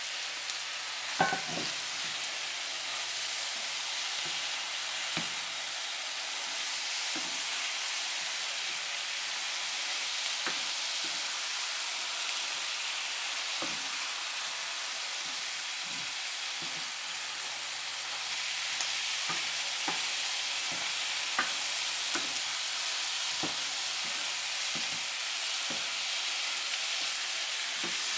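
Chicken wings sizzling in a hot pan of sauce, with scattered clicks and scrapes of a utensil stirring against the pan and a sharper clatter about a second in.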